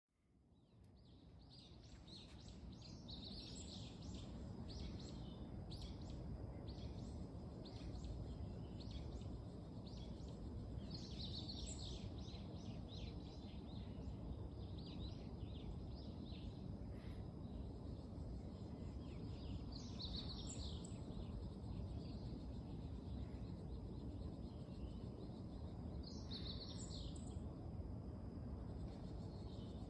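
Meadow bunting singing: quick high phrases of chirping notes, repeated in short bouts several times, over a steady low background rumble that fades in at the start.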